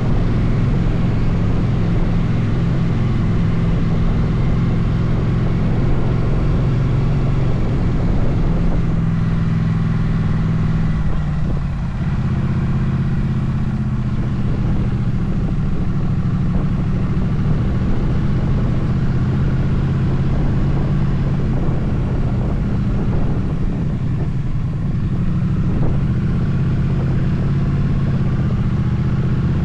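Motorcycle engine running under way with road and wind noise. About eleven seconds in, the engine note dips briefly, as on a gear change or a lift off the throttle, then carries on at a slightly different pitch.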